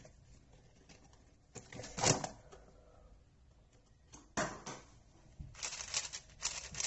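Handling of a 4x4 puzzle cube and its packaging: scattered short rustles and clicks, then a quicker run of clicks in the last second and a half.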